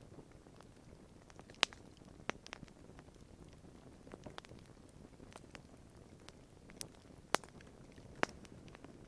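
Wood campfire crackling: irregular sharp pops and snaps over a soft, steady low rustle of burning, with the loudest pops about one and a half seconds in and again around seven and eight seconds in.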